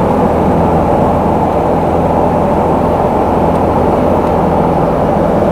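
Small propeller airplane's engine running steadily at high power during takeoff, a loud even drone with no change in pitch.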